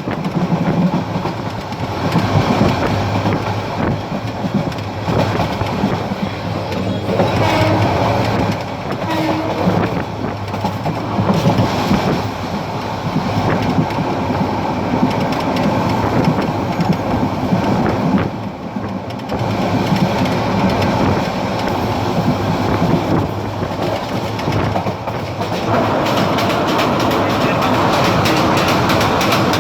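Parabat Express passenger train running at speed, heard on board: a steady rumble of wheels on the rails with irregular clatter over the rail joints. About 26 seconds in, the noise turns steadier and hissier.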